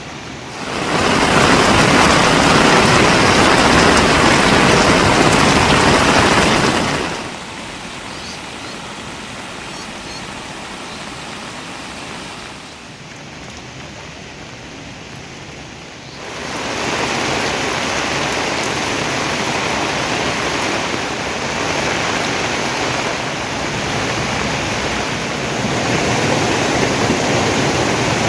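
Steady hiss of rushing water. It is loud for the first several seconds, drops about seven seconds in, dips lower around twelve seconds, and rises again about sixteen seconds in.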